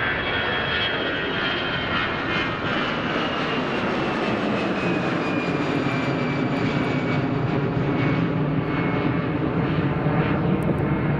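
Jet airliner's engines passing close by: a steady rumble with a high whine that glides steadily downward in pitch as the aircraft goes past.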